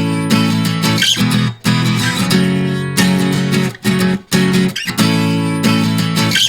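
Background music of strummed guitar chords with a steady rhythm.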